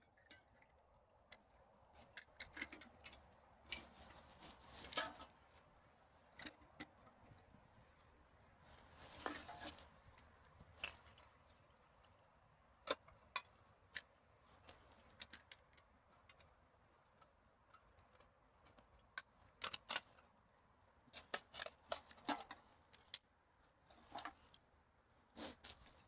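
Irregular crackling, snapping and rustling of dry forest litter and rubbish being handled and stepped on, in uneven clusters of sharp clicks with short rustles between.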